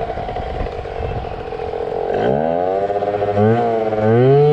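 Yamaha ZR Evo two-stroke scooter engine running steadily, then revved up about two seconds in, with two louder throttle blips rising in pitch near the end.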